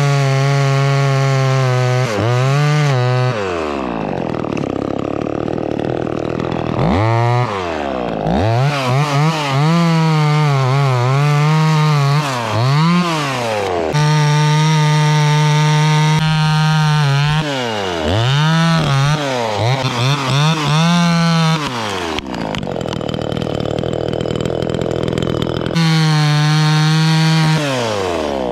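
Two-stroke chainsaw cutting out a tree stump. It runs at full throttle through long cuts and drops back to idle between them several times, its pitch sagging and recovering as the chain bites into the wood.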